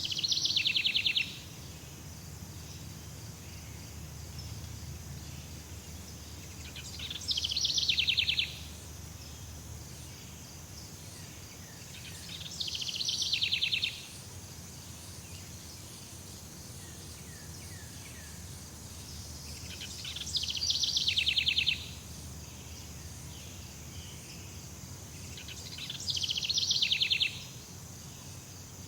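Jungle ambience: a steady high insect drone under a low rumble, with a loud, rapid pulsing trill that swells and cuts off abruptly, repeated five times about every six seconds.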